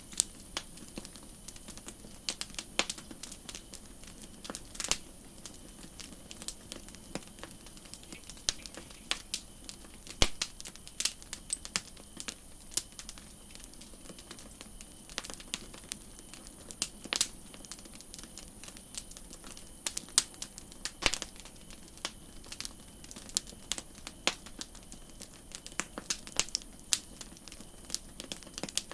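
Campfire crackling: irregular sharp pops and snaps, several a second and unevenly spaced, over a soft steady hiss.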